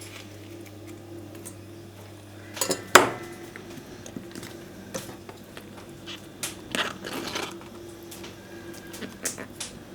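Kitchen handling sounds: scattered sharp clicks and knocks of things being set down and handled, the loudest about three seconds in, over a low steady hum.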